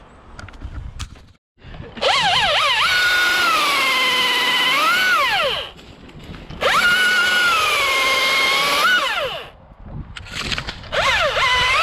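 Chainsaw at full throttle cutting pine in two cuts of about three seconds each, its pitch sagging under load in the wood and rising again before it drops back to idle; a third throttle burst starts near the end.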